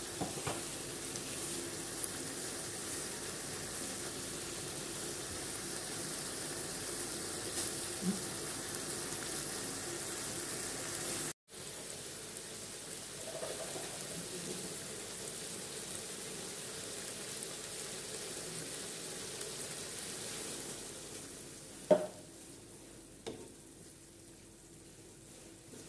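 Pieces of pork sizzling as they fry in an aluminium wok: a steady hiss that drops out for a moment near the middle and grows quieter over the last few seconds. Near the end a wooden spatula stirs the pork and gives a sharp knock on the wok, followed by a lighter one.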